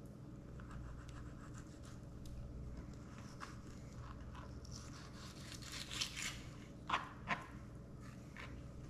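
Faint scratching and scraping of a long, flexible fillet knife working a fish fillet on a cutting board, as the skin is cut away, with a few sharper clicks about six and seven seconds in.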